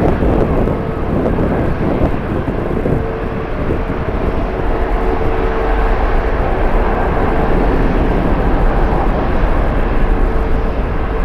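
Jet airliner engine noise heard over strong wind buffeting the microphone: a continuous loud rush and low rumble with a steady mid-pitched hum, slowly building.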